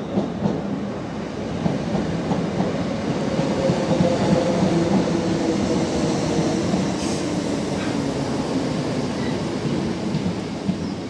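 Electric multiple-unit train running through the station. Its wheels click over the rail joints in the first second or so, then it settles into a steady rumble with a low hum.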